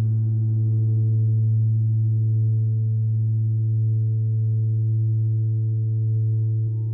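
Gong bath instruments sounding a steady low hum with ringing overtones above it. The tone is softly renewed near the end.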